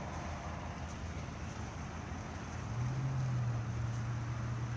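Outdoor background noise with a steady low mechanical hum, like a vehicle engine running; the hum grows stronger and steadier a little past halfway through.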